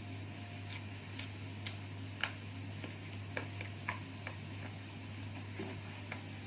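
Someone eating: small, irregular mouth clicks and smacks of chewing, about a dozen in a few seconds, over a steady low hum.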